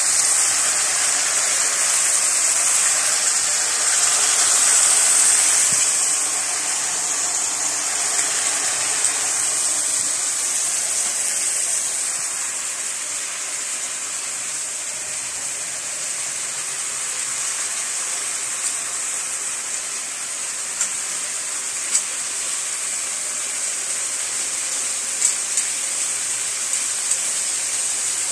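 Pieces of meat frying in oil in a wok: a steady sizzle, louder in the first few seconds, with a few light clicks of metal tongs against the wok in the second half.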